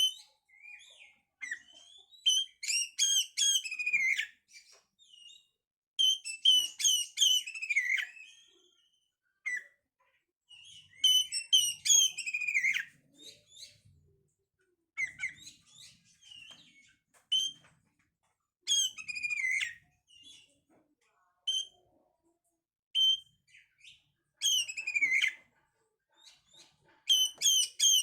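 Oriental magpie-robin (kacer) singing: phrases of quick, varied whistles and chirps, many sliding down to a lower note at the end, repeating every few seconds with short pauses between.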